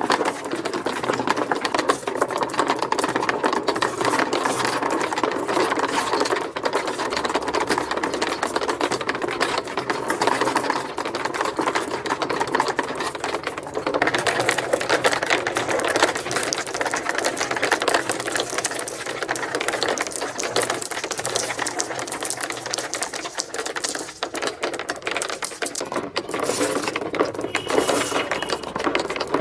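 Many marbles rolling and clattering down plastic marble-run ramps in a dense, continuous rattle of rapid clicks.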